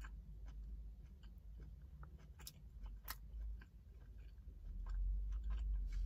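A person chewing a mouthful of turkey burger close to the microphone, with small, scattered wet clicks of the mouth and a low rumble that grows louder near the end.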